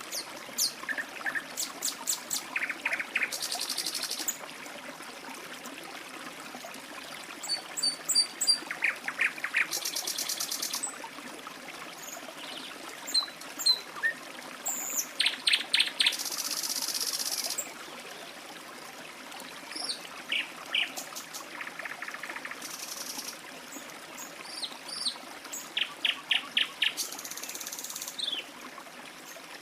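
Birds chirping and trilling over a steadily trickling stream: short high chirps in quick runs, broken every few seconds by a high, fast trill lasting about a second.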